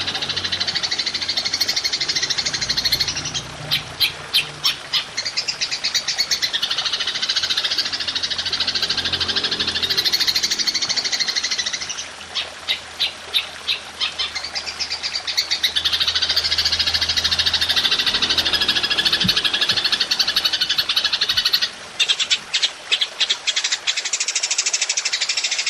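Belalang emas (golden grasshopper) stridulating in long, continuous high-pitched buzzing trills, broken three times by runs of rapid separate sharp chirps: a third of the way in, about halfway, and near the end.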